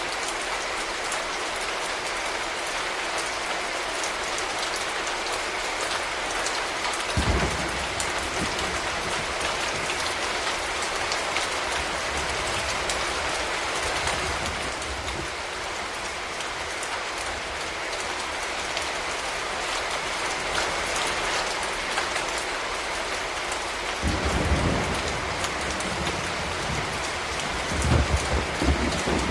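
Steady rain falling and pattering on surfaces, a constant hiss of drops. A few brief low thumps break through about seven seconds in, again near the end, and once more just before it stops.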